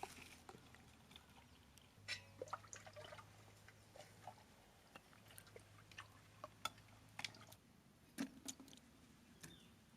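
Near silence with faint, scattered small clicks and taps, a dozen or so spread unevenly, over a low steady hum that drops out a couple of times.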